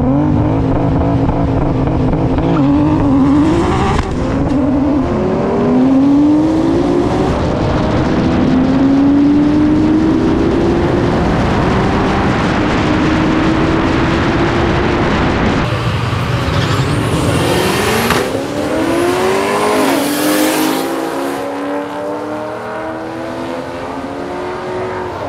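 A Nissan R32 Skyline GT-R and a single-turbo Mazda FD RX-7 rotary make a drag-strip pass at full throttle. The engine notes climb in pitch and drop back at each gear change.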